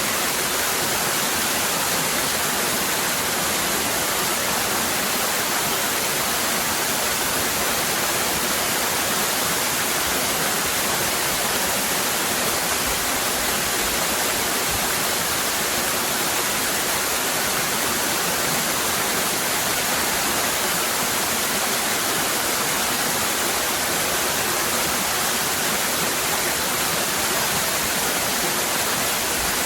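Waterfall cascading: a steady, unbroken rush of falling water, with its energy in the hiss range and little low rumble.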